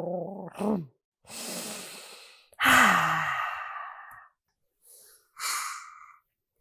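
A person's voice hums a low, wavering growl imitating a rumbling stomach, which ends about half a second in. Then comes a long sniffing breath in and a loud, breathy, contented sigh that falls in pitch, followed by a shorter sniff near the end: a vocal imitation of savouring the smell of fresh baking.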